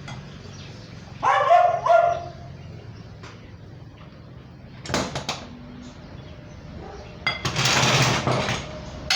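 A dog giving two short yelping whines about a second in, then a few sharp clicks around five seconds in and a longer harsh noisy sound near the end.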